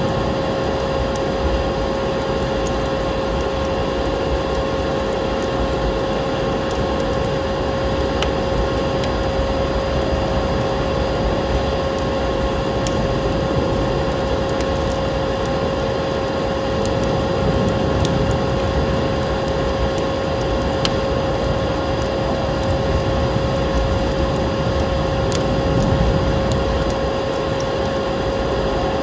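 A layered ambience: the steady drone of a vacuum cleaner with a constant hum, a wood fire crackling with scattered sharp pops, and the even rush of snowstorm wind.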